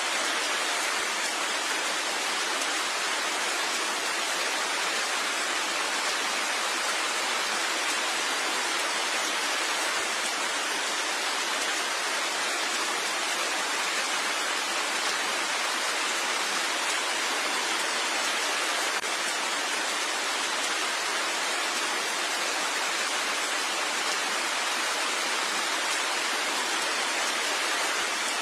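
Rain falling steadily, an even, unbroken hiss with no single drops standing out.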